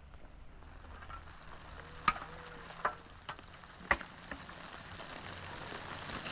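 Light rain pattering, a faint steady crackle, with four sharp taps between about two and four seconds in.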